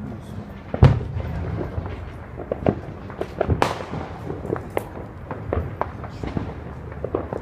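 Fireworks going off: a loud bang about a second in and another near the middle, with scattered smaller pops and crackles between them.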